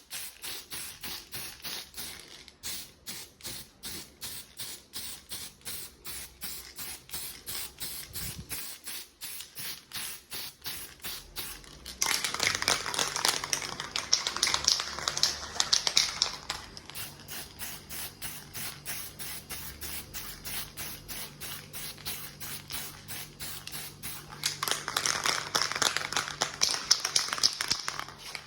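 White aerosol spray paint can hissing in two long bursts, the first of about four seconds and the second of about three, as it paints over sanded rust spots on a washing machine's metal body. Under it runs a fast, steady clicking.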